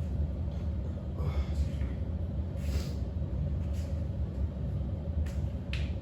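Steady low background rumble, with a few short breaths from a person out of breath after exercise.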